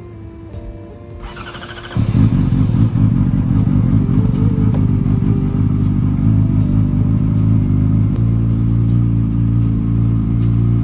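Yamaha R6 inline-four engine with an SC-Project aftermarket exhaust, cranked by the starter and firing about two seconds in, then idling steadily and loud.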